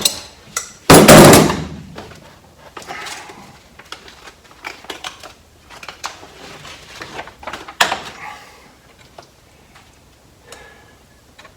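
Loud thump on the sheet metal of the 1951 Ford pickup's cab about a second in, as self-adhesive sound-deadening sheets are handled and pressed on. It is followed by lighter rustling and clicks of the sheets and their backing, and one sharper knock later on.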